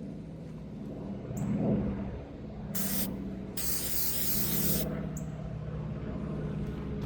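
Aerosol can of Meguiar's headlight coating sprayed twice onto a headlight: a short hiss, then a longer one of about a second. A steady low hum runs underneath.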